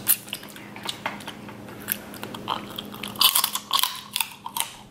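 Chewing and biting snow crab leg meat coated in sauce, with many short mouth clicks and smacks that come thickest about three seconds in.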